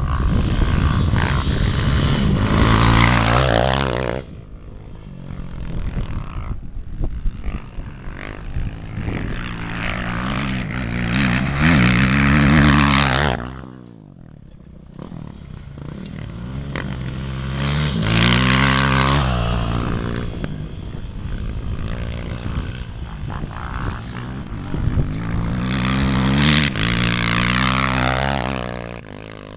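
Off-road racing engines revving up and easing off, in four loud swells with quieter running between.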